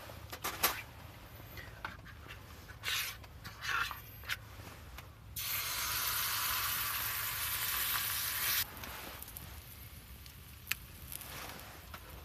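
A steady sizzling hiss that starts abruptly about five seconds in and cuts off about three seconds later, after a few scattered clicks and knocks.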